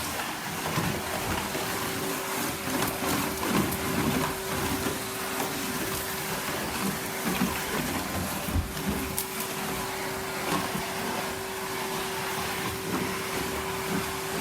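Numatic Henry canister vacuum cleaner running with a steady hum over a rushing hiss, with small irregular rattles as debris such as wood shavings is sucked up the hose.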